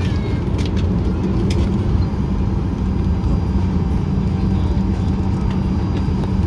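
Passenger airliner cabin noise: a steady low rumble with a constant hum and scattered small clicks and rattles.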